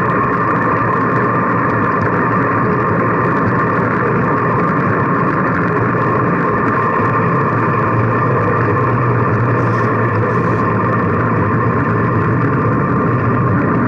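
Steady wind and road noise from riding a bicycle, a constant rushing sound.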